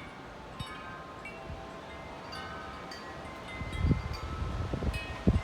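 Wind chimes ringing irregularly as gusts swing them, several tones overlapping. From about three and a half seconds in, wind buffets the microphone with a low rumble.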